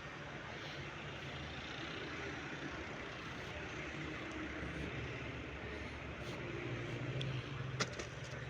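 An engine running steadily under a general mechanical din, with one sharp knock near the end.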